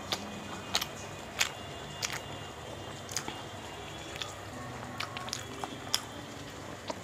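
Close-up mouth sounds of chewing bhatura (puffed fried bread) and chickpea curry, with about ten sharp wet clicks and smacks at irregular intervals.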